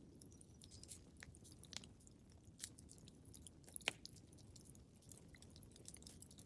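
Wood fire crackling in a fireplace: quiet, irregular pops and snaps over a low, soft rumble, with one sharper pop about four seconds in.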